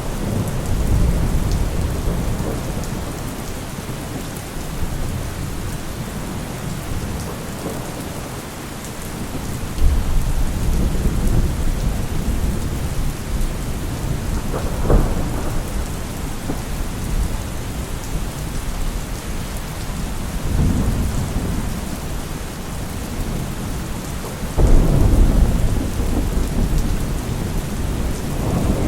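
Heavy rain with rolling thunder. Several low rumbles swell up, about ten seconds in, near twenty seconds and loudest just before twenty-five seconds, with a sharper thunder crack about fifteen seconds in.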